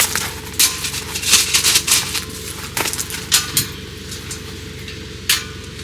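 A series of irregular sharp clicks and clatters, the loudest near the start and again just before the end, over a faint steady hum.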